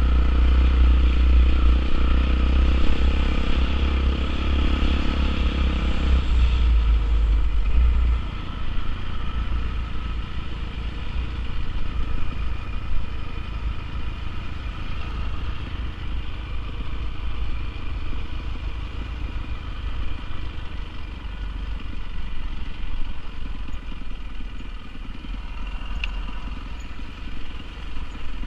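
Honda CRF450R dirt bike's single-cylinder four-stroke engine running steadily. It is louder for the first several seconds and drops to a quieter run from about eight seconds in.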